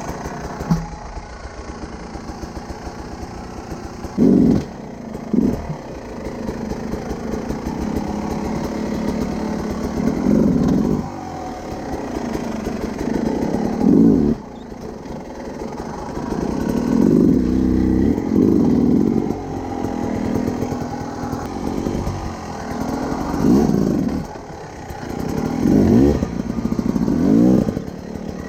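Enduro motorcycle engine being ridden, the throttle opened and closed again and again, so it revs up and drops back in short bursts over a steady running note. Louder surges come about every one to three seconds, most densely in the second half.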